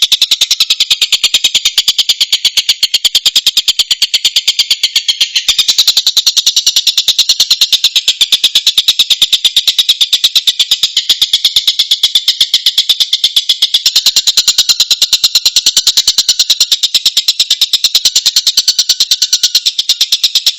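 Tengkek buto kingfisher call: a rapid, unbroken string of evenly spaced high notes, several a second, that never pauses.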